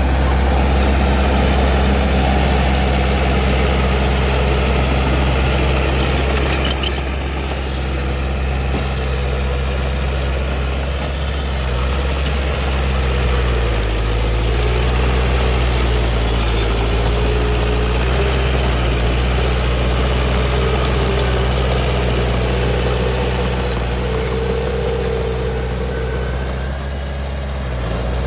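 Heavy construction-machine diesel engine running steadily, its note dropping slightly about halfway through.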